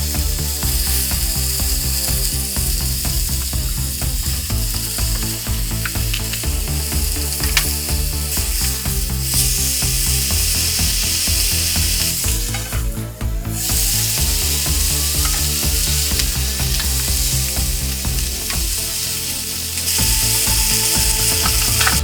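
Food sizzling and crackling as it fries in a hot pan, the hiss dropping back and surging again a few times, over background music with a slow-changing bass line.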